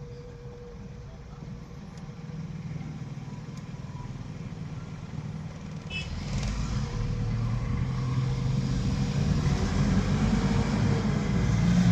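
A car's engine and road noise running steadily, growing louder from about halfway through.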